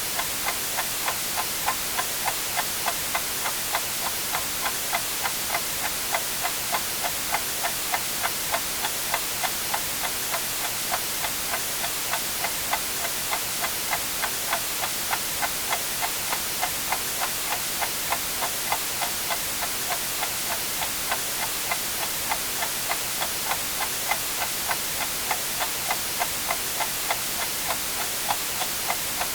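Clock ticking evenly, about two ticks a second, over a steady white-noise hiss.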